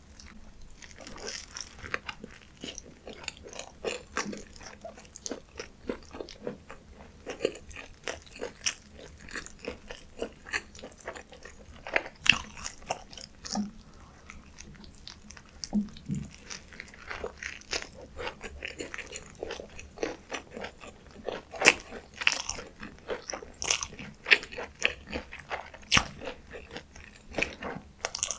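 Close-miked eating of McDonald's fast food: bites and continual chewing with many sharp, crisp crunches at an uneven pace.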